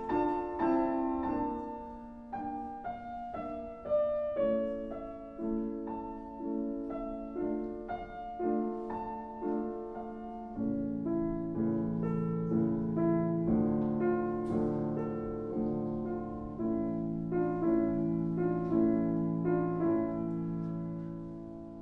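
Piano playing a slow classical-style passage, notes struck and left to ring. A lower line joins about halfway through.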